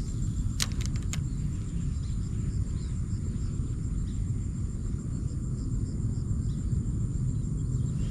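Insects calling in a steady high, pulsing trill over a constant low rumble, with a few sharp clicks about a second in.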